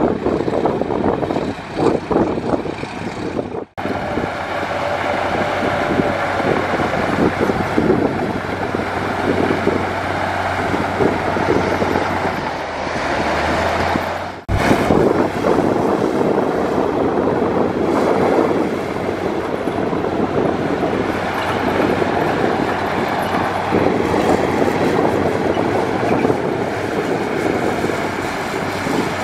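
Komatsu D58E bulldozer's diesel engine working steadily with clanking track clatter as it pushes soil. The sound breaks off for an instant twice, about 4 and 14 seconds in.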